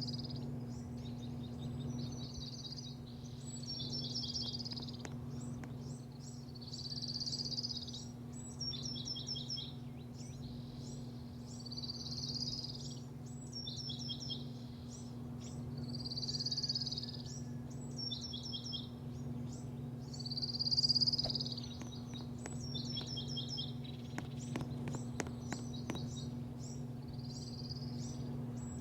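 A songbird singing the same short phrase again and again, about every four seconds: a slurred whistle followed by a quick run of four or five notes. Under it runs a steady low hum.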